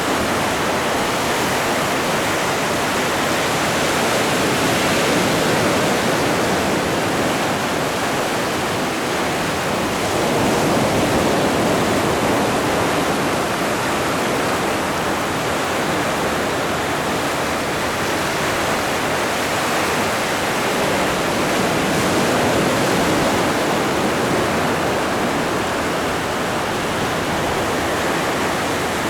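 Ocean surf washing onto the shore in a steady rush, rising and falling gently every several seconds as the waves come in.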